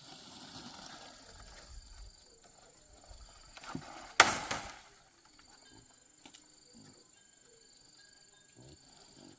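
Insects chirping steadily in high thin tones, with one sudden loud noisy burst about four seconds in that dies away within a second.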